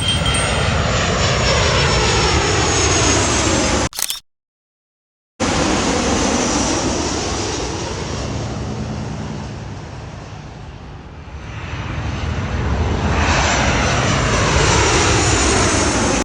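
Jet airliner engine noise as aircraft pass close by, with the pitch falling as each goes past. The sound breaks off about four seconds in, then comes back loud, eases off near the middle and builds again as another aircraft nears.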